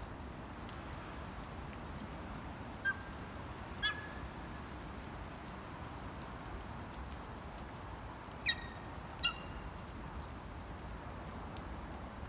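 A bird calling: five short, sharp calls that drop in pitch, coming as two pairs and then one more. Behind them is a steady background hiss.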